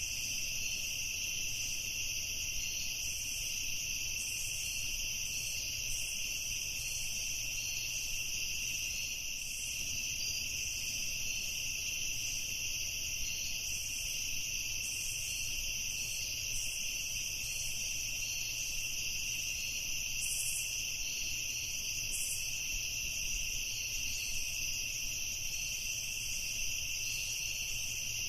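Evening chorus of insects, a steady high-pitched shrilling at two pitches that goes on without a break.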